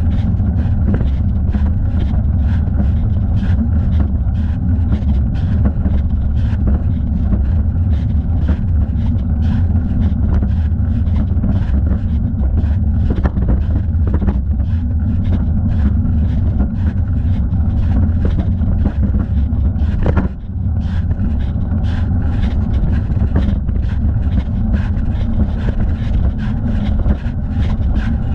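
Riding noise from a bicycle heard through a thigh-mounted camera: a steady low rumble of wind and road on the microphone, with frequent small clicks and rattles. The rumble dips briefly about twenty seconds in.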